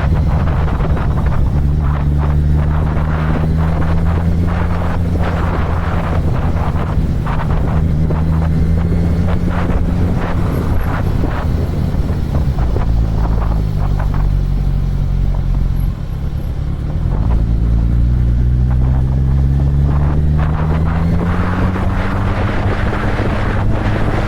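Motorcycle engine running on the move, with wind buffeting the microphone throughout. The engine pitch drops about halfway through as the bike slows, dips briefly, then rises steadily again as it speeds back up.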